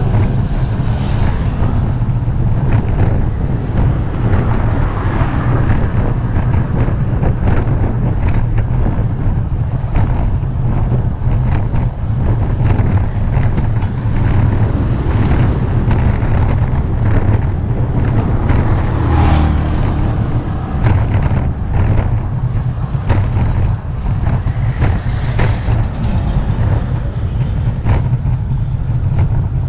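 Steady, loud rumble of wind buffeting the action camera's microphone while riding a bicycle, mixed with road noise.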